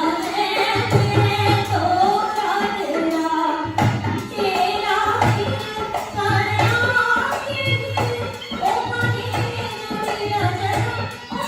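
Rajasthani folk music: a voice singing a wavering melody over a steady low drum beat.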